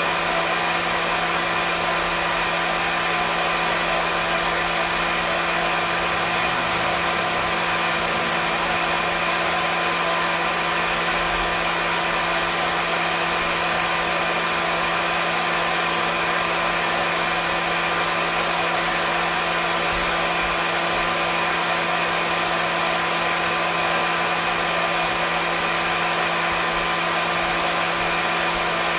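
Hair dryer running steadily: a constant blowing hiss with a steady motor hum and whine underneath, unchanging throughout.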